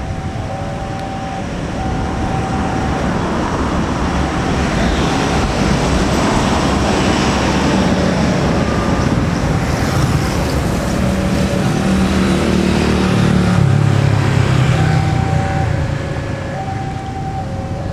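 The Gajayana passenger train, a diesel-hauled set of stainless steel coaches, passing by: a broad rumble of wheels on rail grows louder, with a low engine drone strongest about three-quarters of the way through, then eases near the end.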